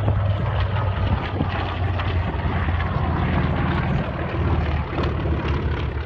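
Piston-engine propeller airplane flying overhead: a steady low engine drone with a rushing propeller and air noise over it, easing slightly near the end.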